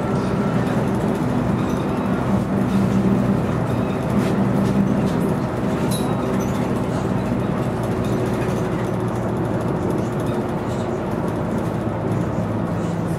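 Scania CN113CLL city bus's Scania DSC 11.71 diesel engine running steadily.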